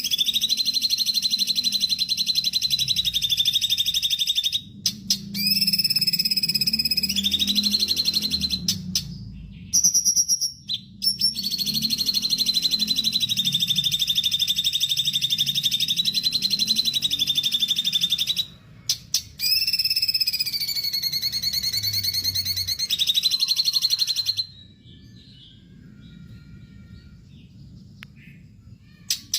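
Cucak cungkok songbird singing long, rapid buzzing trills, each held for several seconds and stepping between pitches, broken by a few short pauses. Near the end the song drops to a quieter stretch of faint chirps.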